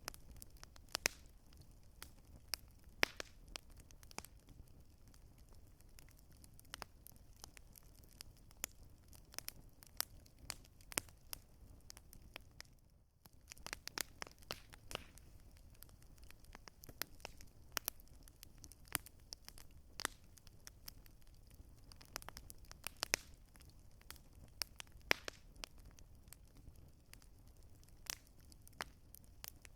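Campfire crackling: irregular sharp pops and snaps of burning wood over a faint low rumble, briefly dropping away for a moment near the middle.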